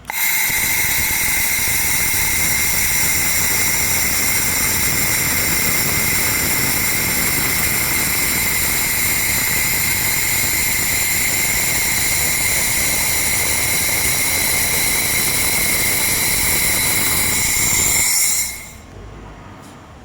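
4-in-1 handheld fiber laser machine running: a steady high-pitched whine over a hiss, switching on abruptly and cutting off after about eighteen seconds.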